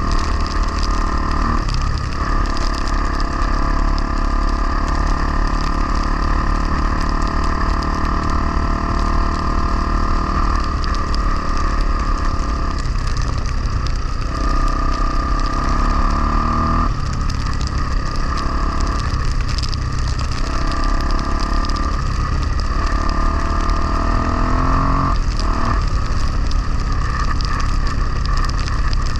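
Honda XR250R dirt bike's single-cylinder four-stroke engine running under way. Its pitch climbs and falls again and again, with brief dips every few seconds as the rider rolls off the throttle and shifts gears.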